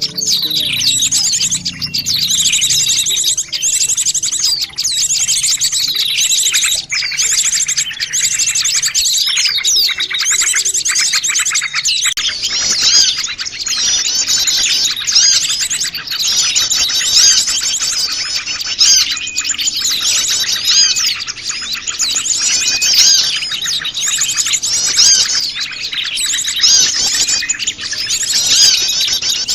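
Many small wild birds chirping and twittering at once in a dense, unbroken chorus of mixed calls, the kind of noisy small-bird recording played as a lure to draw birds in.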